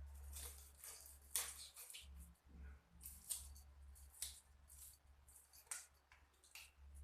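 Faint, irregular short scrapes and clicks, a few each second at most, over a steady low hum.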